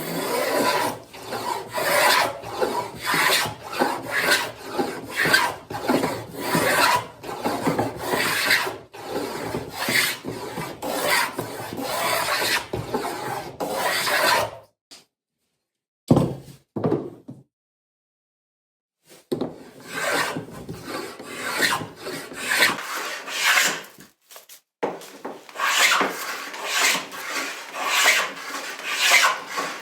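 A hand tool rasping along wood in quick repeated strokes, about two a second, shaping a picture frame molding profile. The strokes stop for a few seconds about halfway through, with a couple of short knocks, then resume, with one more brief break near the end.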